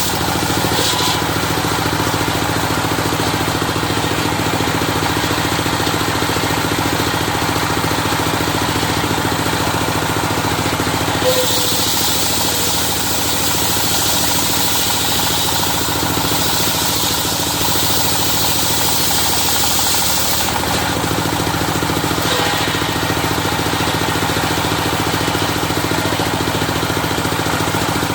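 Engine-driven circular sawmill running steadily. Partway through, the blade cuts through a dadap log for about nine seconds, adding a high cutting noise over the engine's steady drone.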